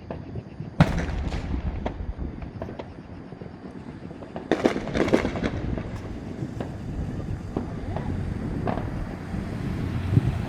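Fireworks going off: a sharp bang about a second in, a dense cluster of crackling bursts around the middle, then scattered lighter pops.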